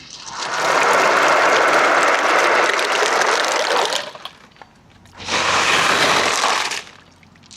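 Marbles rolling along a long marble-run ramp, a dense, steady rolling clatter for about four seconds, a short lull, then a second, shorter stretch of rolling starting about five seconds in.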